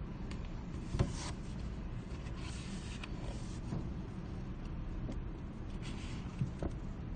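Library room ambience: a steady low hum with a sharp knock about a second in, several brief rustles of paper or handling, and a light tap near the end.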